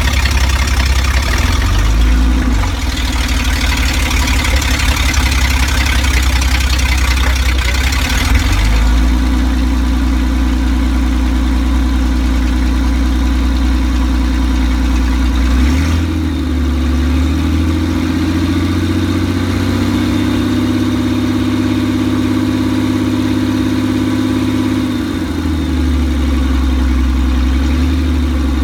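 Toyota Land Cruiser FJ62's inline-six engine running with no exhaust system fitted, loud and open. It idles, is brought up to higher engine speed twice for several seconds at a time, and drops back to idle each time.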